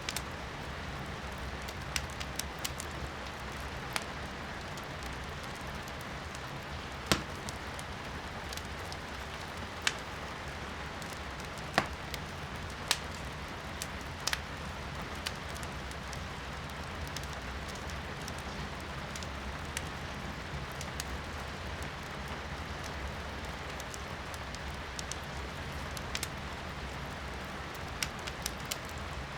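Wood burning in a fireplace, crackling with a dozen or so irregular sharp pops, over a steady hiss of rain heard from indoors.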